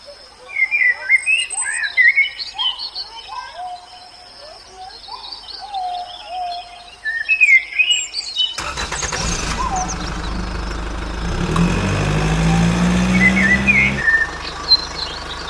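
Birds chirping and calling with short rising and falling notes. About halfway through, a machine sound with a low hum comes in suddenly, rises slightly in pitch, and drops back down near the end while the birds go on faintly.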